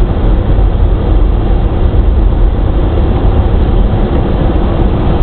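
Steady, loud rumble of a car's road and engine noise, heard from inside the moving car's cabin.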